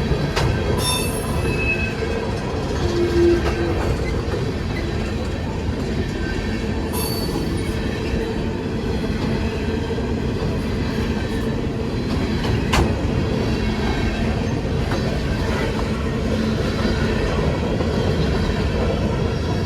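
Train cars rolling on the rails with a steady heavy rumble, and brief high-pitched wheel squeals about a second in and again around seven seconds. A single sharp click comes near the thirteen-second mark.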